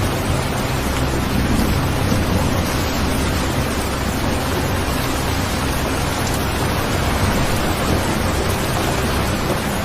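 Steady recorded rain, with a low rumble underneath that swells slightly a second or two in.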